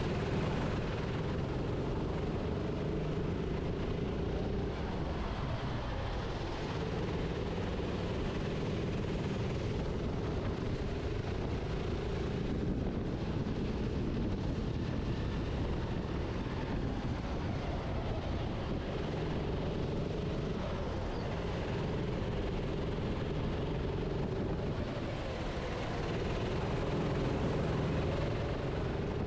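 Kart engine running on track under the driver, its revs falling briefly a few times and climbing again, over a dense rush of wind and track noise on the onboard microphone.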